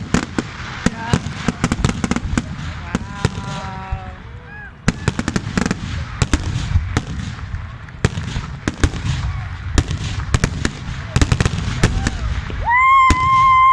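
Fireworks going off in a dense run of sharp cracks and bangs over a low rumble, with people's voices mixed in. Near the end a loud, high held tone lasts about a second.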